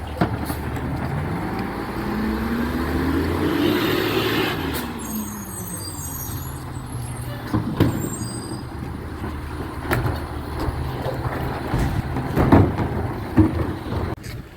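Recycling truck running: a steady diesel engine hum, with a whine that rises and then falls over a few seconds about a second in, then several sharp knocks in the second half.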